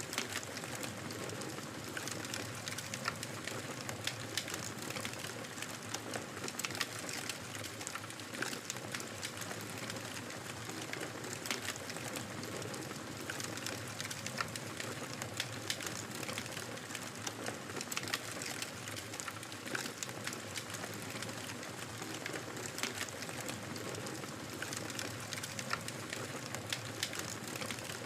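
Fire crackling in a fireplace: a steady hiss with frequent small, sharp pops and snaps scattered irregularly throughout.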